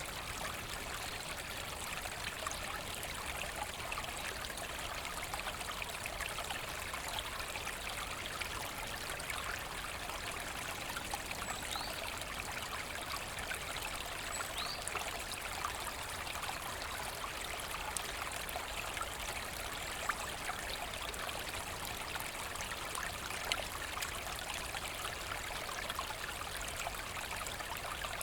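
Forest brook: water flowing and trickling steadily.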